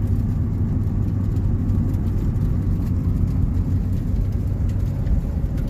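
Steady low engine and road rumble heard from inside a truck cab.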